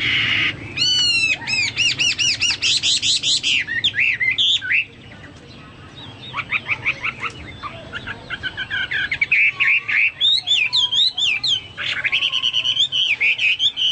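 Hwamei singing a loud, varied song of repeated arching whistled notes and quick runs of notes, in a style likened to a cucak Papua or golden-fronted leafbird (cucak mas). A short pause comes about five seconds in, then the song resumes.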